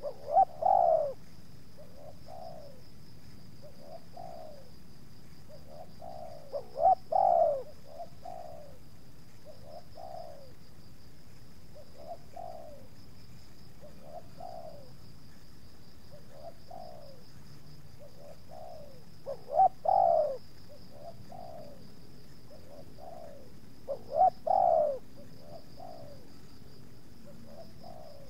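Spotted doves cooing: a loud, close coo phrase comes four times, with fainter coos repeating about once a second between them.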